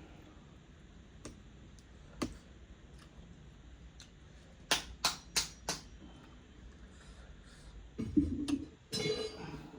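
Mud crab shell being cracked and snapped apart while eating, with a few scattered clicks, then four sharp cracks in quick succession about halfway through, and louder crunching and handling noise near the end.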